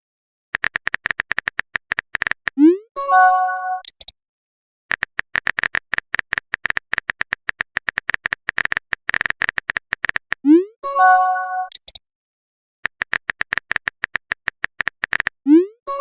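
Phone chat sound effects: three runs of rapid keyboard-tapping clicks as messages are typed. Each run is followed by a message pop: a quick rising swoop and a short chime of a few tones. The pops come about three seconds in, about ten and a half seconds in, and near the end.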